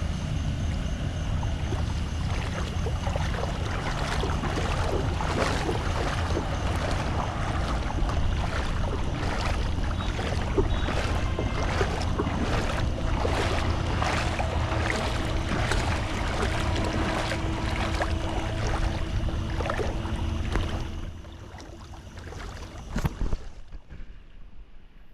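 Floodwater splashing and rushing, with a heavy low wind rumble on the microphone. It drops away sharply about 21 seconds in.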